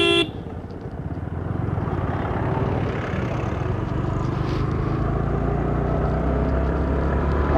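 Motorcycle engine running steadily under way, with road and wind noise, as the bike cruises. The last of a repeated horn beep sounds right at the start.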